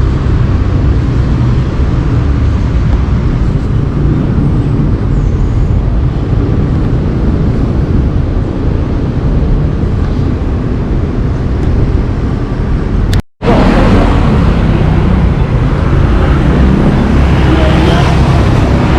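Road traffic noise with vehicle engines running, a steady low rumble. It cuts out briefly about 13 seconds in and comes back with more hiss.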